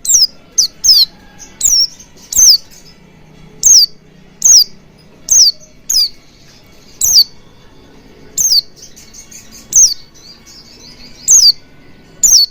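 White-eye (pleci) calling: short, high, sharp notes, each sliding quickly down in pitch, repeated irregularly about one to two times a second.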